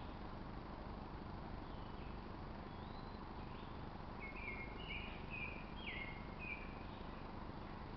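A bird calling: a single short note, then a quick run of chirps about halfway through, over a steady outdoor hiss.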